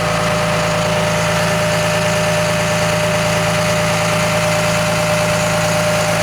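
Cummins 5.9-litre turbo diesel of a 2003 Blue Bird TC2000 bus idling steadily, with a steady whine over the engine note.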